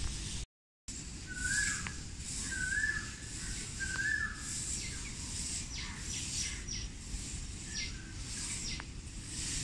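Birds calling outdoors. Just after a brief dropout near the start, a short whistled phrase repeats three times about a second and a half apart, followed by several quick high chirps. A low steady background rumble runs underneath.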